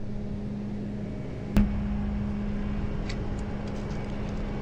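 Truck engine idling with a steady hum. A single sharp metallic clank comes about a second and a half in, followed by a few lighter clicks, from tie-down straps and hooks being worked while the load is secured.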